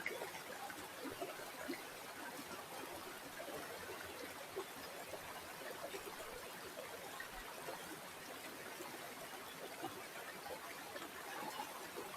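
Small stream of water flowing and trickling, a steady babble with small irregular splashes.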